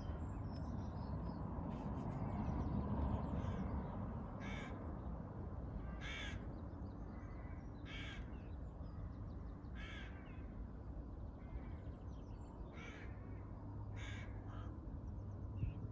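A bird calling: short harsh calls repeated roughly every two seconds, over a steady low background rumble.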